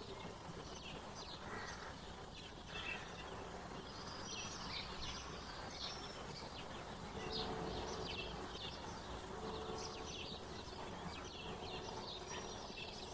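Small wild birds chirping and calling, many short high notes overlapping one another, over a steady outdoor background hiss.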